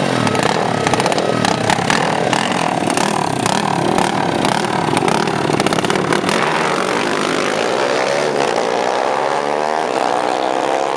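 Drag-racing motorcycle engines running hard at high revs, with rapid crackling pops through the first half, then a smoother engine note that rises and falls in pitch.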